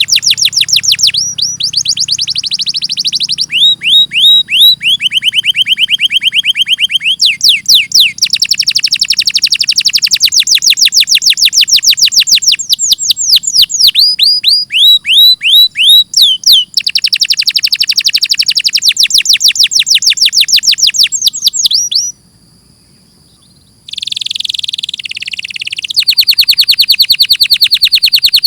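Domestic canary singing: long rolling trills of fast repeated high notes, each phrase at a different pitch and speed. It breaks off briefly about two-thirds of the way through, then resumes with a buzzy phrase and more trills.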